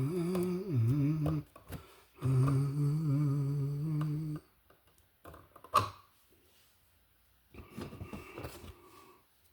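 A man humming steady low notes in two stretches, each a second or two long. After that comes a single sharp click about six seconds in, then fainter handling sounds near the end.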